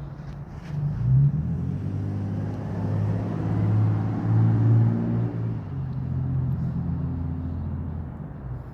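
A motor vehicle driving past close by, its engine a low steady hum that builds about a second in, is loudest in the middle and fades near the end.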